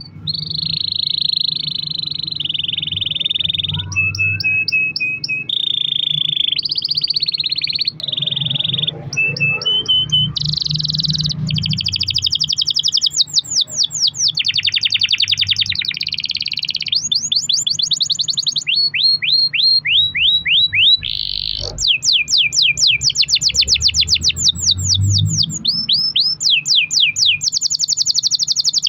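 Domestic canary singing a long, unbroken song of rapid trills and rolls, each a fast run of repeated notes, switching to a new roll every second or two.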